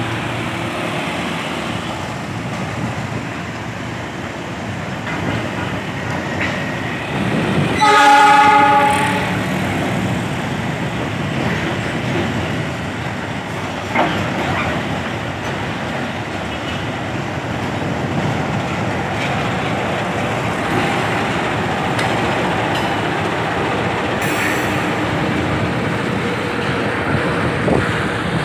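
Ballast train of steel hopper wagons behind a CC 206 diesel locomotive rolling slowly along a street-running track, a steady rumble of wheels and engine mixed with road traffic. One horn blast about eight seconds in, lasting about a second and a half, is the loudest sound.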